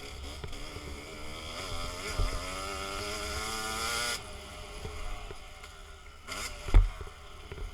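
Dirt bike engine under throttle, its pitch climbing for a couple of seconds before the throttle is shut off abruptly about four seconds in. A loud thump comes near the end, with wind rumbling on the microphone throughout.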